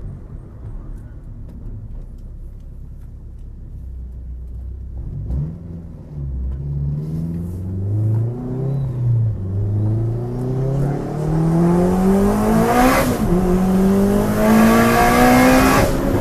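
Turbocharged Honda K20Z3 four-cylinder in a 2009 Civic Si, heard from inside the car. It runs low at first, then accelerates hard with engine pitch rising steadily and getting louder. A gear change about thirteen seconds in drops the pitch before it climbs again.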